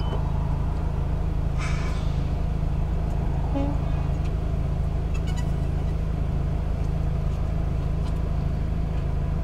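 Steady low road and engine drone of a car being driven, heard from inside the cabin.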